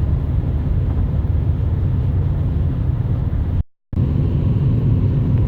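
Steady low rumble of a car driving, broken by a brief cut to silence a little after halfway.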